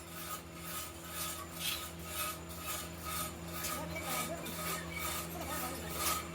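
Workshop machine running with a steady hum and a regular rasping rub about two and a half times a second.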